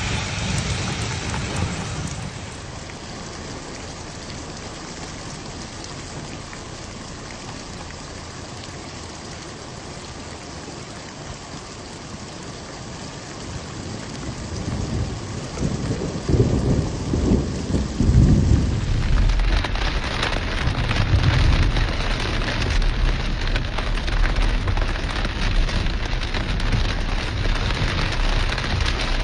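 Steady rain falling, with thunder rumbling low about halfway through. After that the rain comes down harder and louder.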